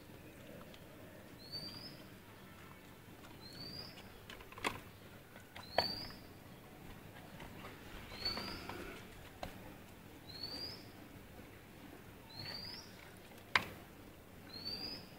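A bird repeating a short, high, upward-sliding chirp about every two seconds. A few sharp clicks come in between, the loudest about a third of the way in and again near the end.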